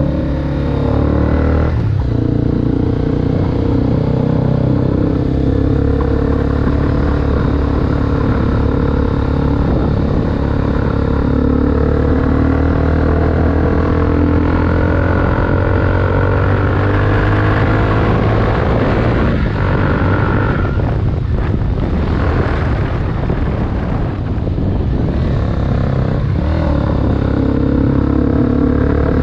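Honda CBR250R's single-cylinder engine running through a Delkevic aftermarket exhaust with the dB killer removed, its pitch drifting slowly up and down.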